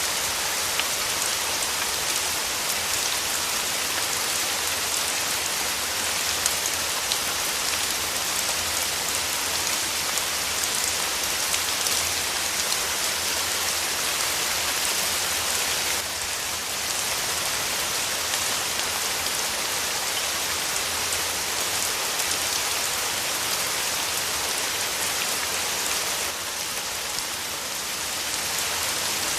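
Steady, heavy rain falling, a dense even hiss of drops with fine scattered drop taps, dipping slightly in level twice.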